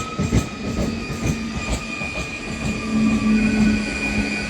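Train passing on the line, a few wheel clacks over rail joints at first, then steady high-pitched wheel squeal over a low hum that swells about three seconds in.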